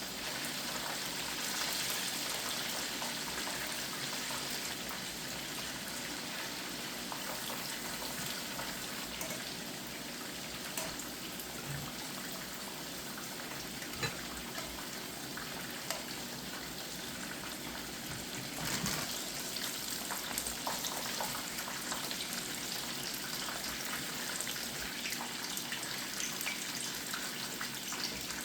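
Cornflake-breaded chicken strips and fries deep-frying in hot oil: a steady sizzle with scattered small pops and crackles.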